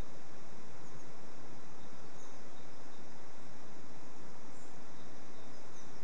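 Steady outdoor background noise with a few faint, short, high bird chirps, about four in all.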